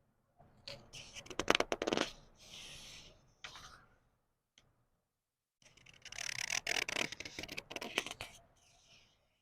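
Paper book pages being turned slowly, twice: each turn a papery rustle and crinkle lasting about three seconds, with a pause in between.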